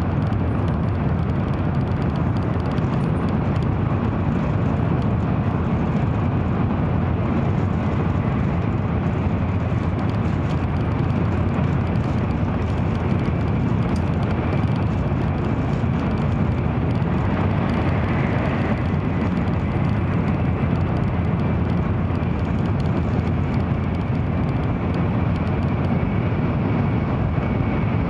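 Steady low rumble of an N700-series Shinkansen running at speed, heard inside the passenger cabin: even running and air noise with no breaks.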